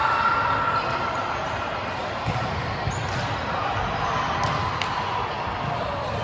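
Volleyballs being hit and bouncing on a sports-hall floor, with scattered short knocks and players' voices in the background.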